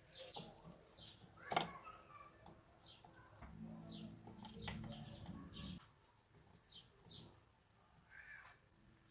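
Faint small birds chirping again and again, with a sharp click about one and a half seconds in and a low hum lasting about two seconds in the middle.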